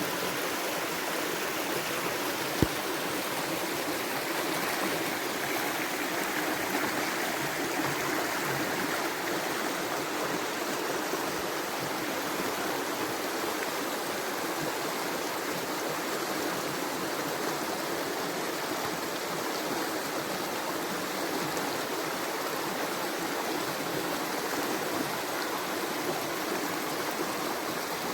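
Steady rushing of a flowing river or stream, with one sharp click about two and a half seconds in.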